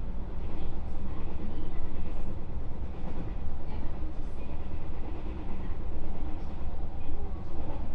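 Inside a JR West 221 series electric multiple unit motor car under way: a steady low rumble of the wheels on the rails and the running gear.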